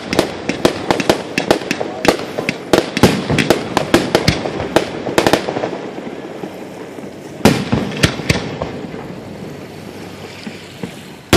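Fireworks display: a rapid volley of sharp bangs for the first half, then a few separate bangs about two-thirds of the way in as the sound fades away, and another loud bang right at the end.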